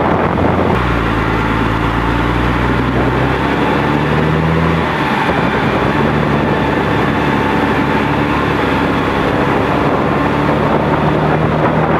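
Fendt 515C tractor's diesel engine with a roaring exhaust, running loud; its speed shifts about a second in and again around four to five seconds, then holds steady.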